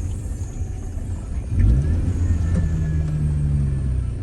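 A car engine running with a low rumble; its pitch rises about one and a half seconds in, then holds steady.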